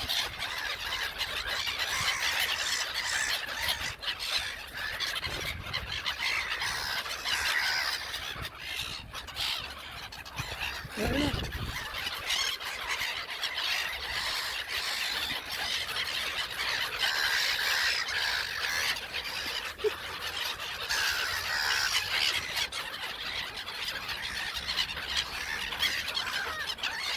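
A flock of gulls calling all at once: a dense, continuous chorus of many overlapping cries.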